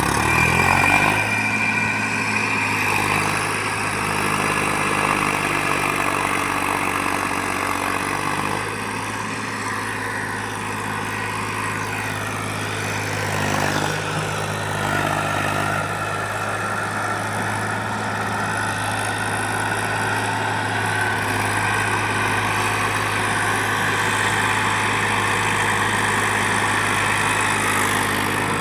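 Eicher 380 tractor's diesel engine running, picking up speed during the first second and then holding a steady low hum.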